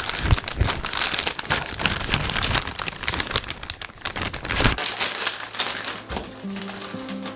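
Crinkling and rustling of packaging being handled and folded, dense for the first few seconds and then thinning out. Soft background music comes in near the end.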